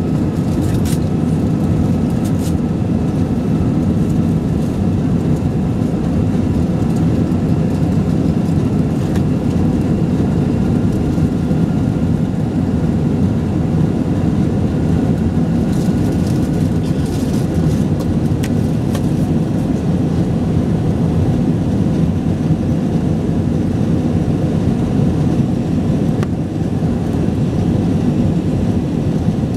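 Airbus A321 cabin noise: a loud, steady roar of the jet engines and airflow heard from a passenger seat, with a faint steady whine over it.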